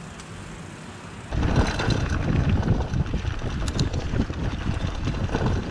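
Wind buffeting the microphone of a bike-mounted action camera while cycling. It is a loud, uneven low rumble that starts suddenly about a second in.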